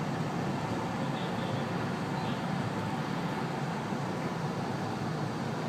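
Steady low rumble of a JR Gakkentoshi Line commuter train running, with no change in level.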